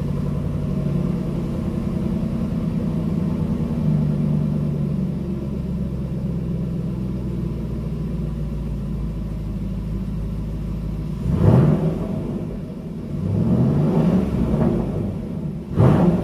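Jaguar XFR's supercharged 5.0-litre V8, with a modified exhaust and the catalytic converters deleted, idling in park with a deep rumble. Near the end it is blipped three times, one longer rev rising and falling between two short ones.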